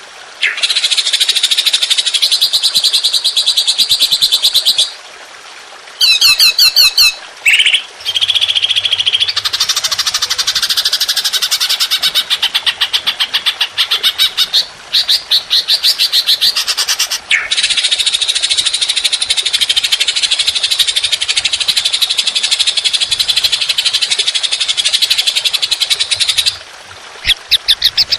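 Songbird singing long, rapid, harsh chattering phrases, high-pitched and loud, the rough 'long shot' song used in masteran recordings for training caged birds. There are brief pauses about five, seven and twenty-seven seconds in.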